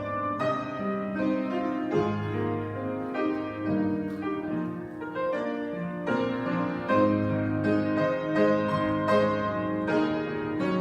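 Piano music: held chords over sustained bass notes, with a melody moving above them.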